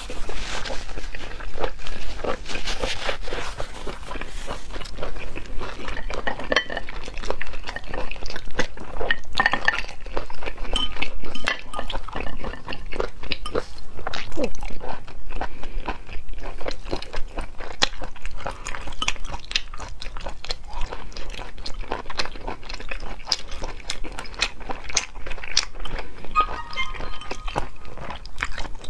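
Close-miked chewing of sea snail meat, with wet mouth sounds and crunching, and many short clicks and scrapes of the large spiral shells being handled and the meat pulled out.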